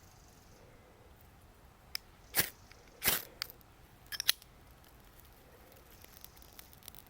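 A few short, sharp clicks and crunches about two seconds in, over a faint steady background; they sound like something being handled or snapped.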